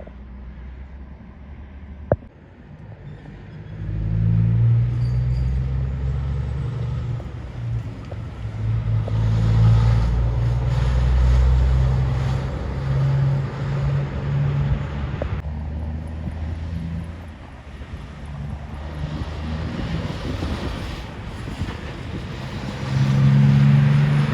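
Heavy truck's diesel engine running loud as it passes along the road, swelling from about four seconds in and again near the end. A single sharp click sounds about two seconds in.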